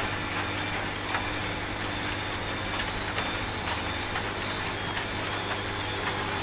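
Steady rain hiss with scattered drop ticks over the low, even hum of a washing machine running.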